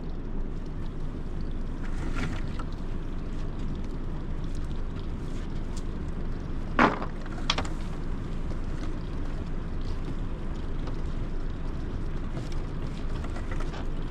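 Motorboat under way: a steady rush of engine and water noise, with a couple of sharp knocks about halfway through.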